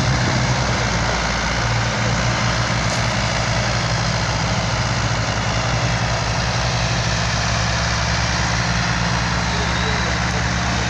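Tractor engine running steadily, a low, even drone with no change in pitch.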